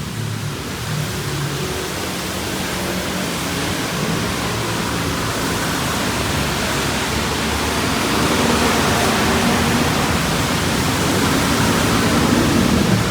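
Steady wash of rain and traffic on a wet city road, with vehicle engines running low underneath and a vehicle growing louder near the end.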